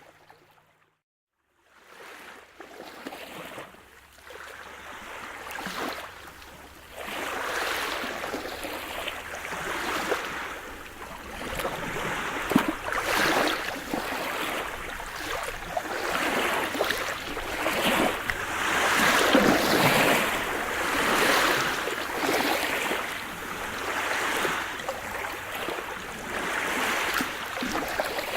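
Sea surf: waves washing and breaking, swelling and easing every couple of seconds. The sound drops out briefly near the start, then fades back up over a few seconds.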